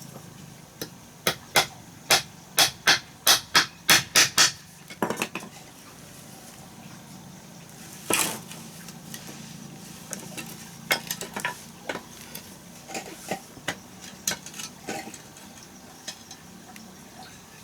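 A run of sharp knocks, about three a second for some three seconds, then a louder single knock about eight seconds in, followed by scattered lighter taps.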